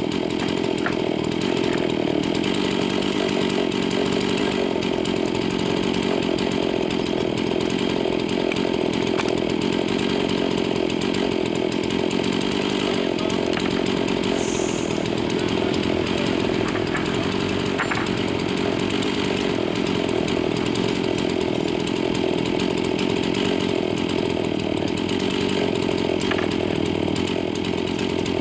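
Stihl two-stroke chainsaw running steadily without a break.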